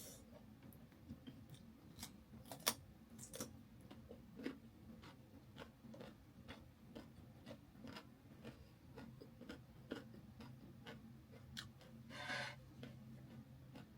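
Faint, scattered mouth clicks and chewing of someone eating chicken, irregular and soft, with a brief rustling hiss about twelve seconds in.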